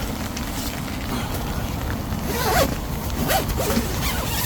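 Rain falling on a camping shelter: a steady low rumble with scattered sharp taps, and faint murmured voices a little past the middle.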